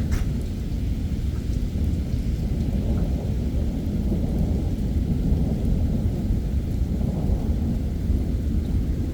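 Heavy thunderstorm: heavy rain falling under a continuous low rumble of thunder.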